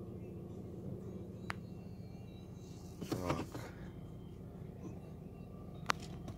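Renault Mégane's 1.5 dCi diesel engine idling steadily, heard from inside the cabin. A sharp click comes about a second and a half in and another near the end.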